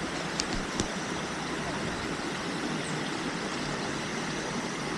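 Steady rush of a waterfall, with two short clicks in the first second.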